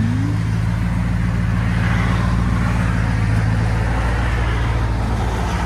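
Jeep Grand Cherokee Trackhawk's 6.2-litre supercharged V8 running at a steady engine speed, heard through an exhaust with Borla Pro XS mufflers, an X-pipe and the rear resonators deleted.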